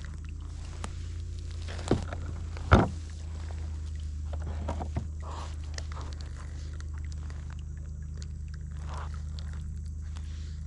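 Scattered clicks and knocks of gear being handled in a plastic kayak, with two louder thumps about two and three seconds in, over a steady low hum.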